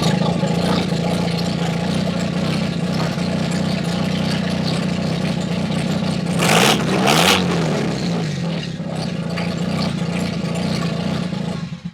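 Mazda RX-7 FD3S 13B twin-rotor rotary engine running with no exhaust fitted: a steady, loud idle, two short revs about six and a half seconds in, then the engine cuts out suddenly near the end.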